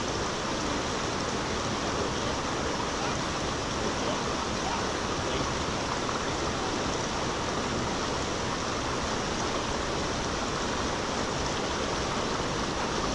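Steady rush of flowing water from a stream or waterfall, an even noise without breaks.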